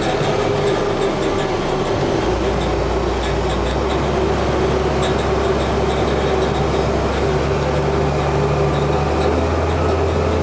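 Steady airport ramp noise of running engines and ground machinery, with a low hum that comes in about two seconds in and holds.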